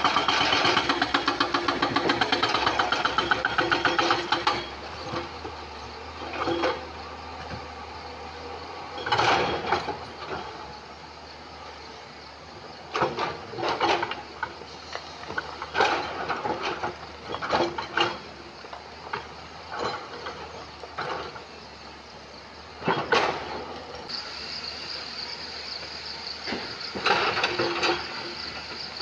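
JCB excavator breaking stone in a riverbed: rapid rhythmic hammering for the first few seconds, then the engine running under scattered loud knocks and clanks of rock, and the fast hammering starts again near the end.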